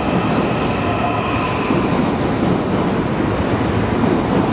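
ITX-Cheongchun double-decker electric train pulling out of a station, with a steady rumble of its wheels on the rails and a faint whine over it. A short hiss comes about a second in.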